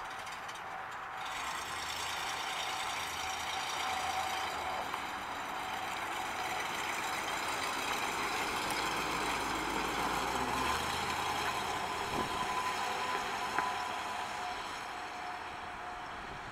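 1955 Buick Roadmaster's rebuilt 322 cubic inch V8 running as the car drives slowly past and away, growing louder toward the middle and fading near the end.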